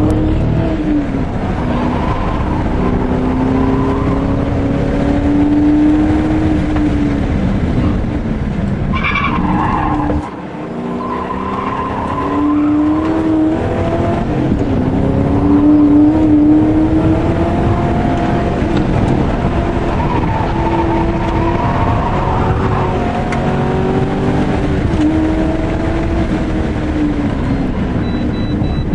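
Racing car's engine heard from inside the cabin at full effort, its pitch climbing through each gear and dropping at each upshift. About nine seconds in there is a brief tyre squeal, and just after it the throttle is lifted for a moment before the engine pulls hard again.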